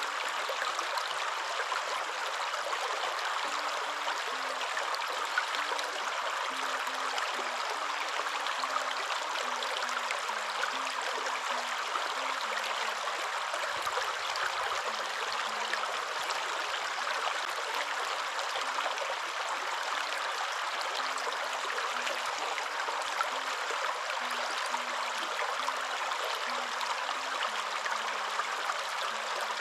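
A waterfall rushing: a steady, unbroken roar of falling water, with no change in level.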